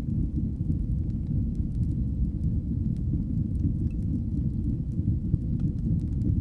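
Wood fire burning in a fireplace: a steady low rumble of flame with scattered faint crackles and pops.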